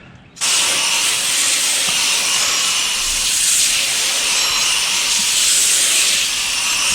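Garden hose spraying water onto the fins of a Goodman central air conditioner's outdoor condenser coil: a steady hiss that starts about half a second in.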